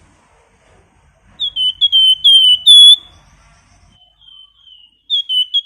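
A songbird sold in Indonesia as 'flamboyan' giving clear, high whistled notes in quick runs. One run comes about a second and a half in, softer notes follow, and another run starts near the end.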